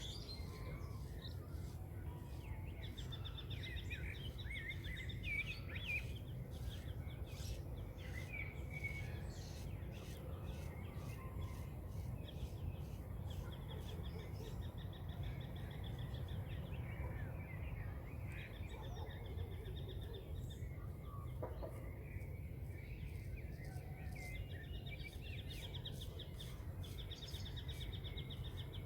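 Dawn chorus of wild birds: repeated rapid trills and scattered chirps, over a steady low outdoor rumble.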